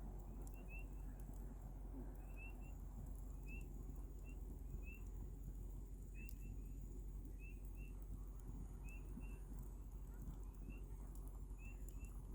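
Campfire burning with faint scattered crackles over a low steady rumble, while a small animal outside gives short high chirps, often in pairs, about once a second.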